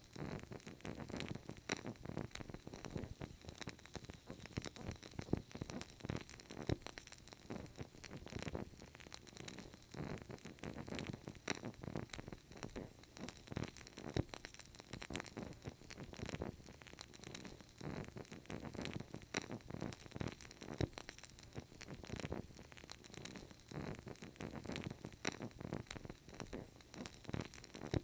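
Burning candle crackling steadily: a dense stream of small, irregular clicks and pops over a faint hiss.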